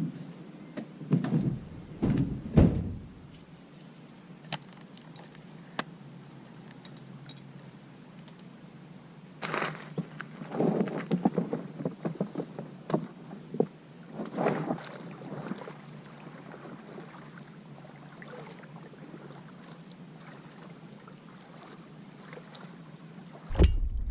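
A fluted-plastic (coroplast) kayak being launched and paddled: several hollow thunks on the thin plastic hull in the first few seconds, then bursts of paddle strokes splashing and knocking around the middle. Wind buffets the microphone near the end.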